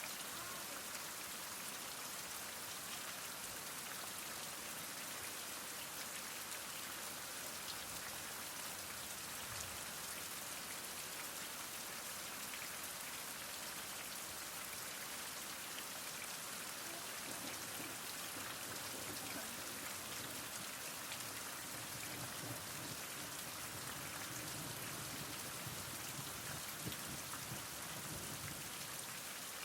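Heavy rain falling steadily, a continuous even hiss of drops on surfaces with scattered individual drop taps.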